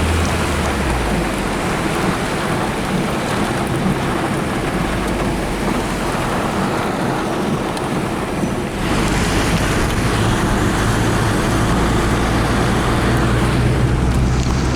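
Car driving in heavy rain: a steady rush of rain and road noise over a low rumble, which grows louder about nine seconds in.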